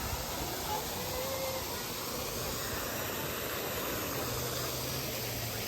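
Steady rushing of water, an even hiss as from a waterfall or cascade.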